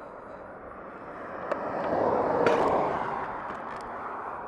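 A vehicle passing by, its tyre and road noise swelling to a peak and fading away.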